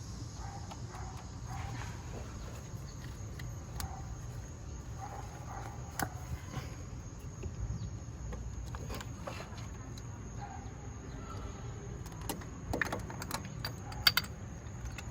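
Scattered light clicks and taps of a socket wrench working on a spark plug in the engine of a Jeep Cherokee XJ, with a cluster of sharper clicks near the end, over a steady low hum and a faint steady high tone.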